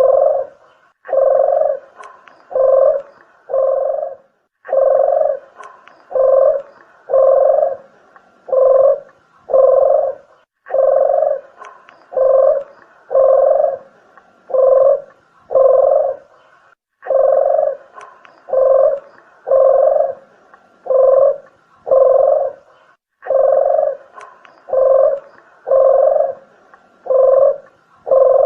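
Red collared dove (puter geni) cooing: rough, purring low coos at about one a second, in phrases that repeat every six seconds or so, played as a bird-lure call.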